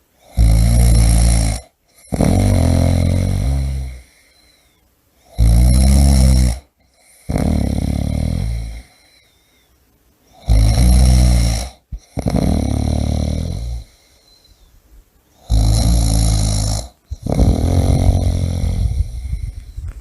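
A person snoring loudly and rhythmically. Each breath cycle is a short snore followed at once by a longer one, repeating about every five seconds with quiet pauses between.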